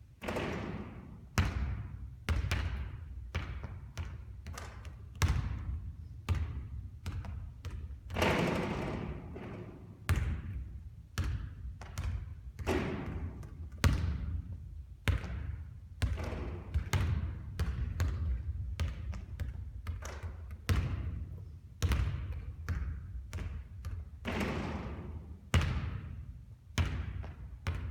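A basketball bouncing and striking again and again, irregularly spaced thuds that each trail off with a short echo, over a steady low hum.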